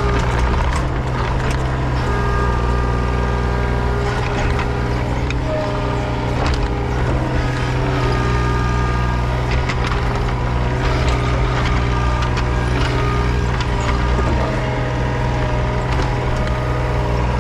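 Small diesel machine engine running steadily under working load, with a whining hydraulic tone that shifts a little in pitch and occasional knocks and scrapes. The machine is most likely the Cat 301.8C mini excavator working the sand pile.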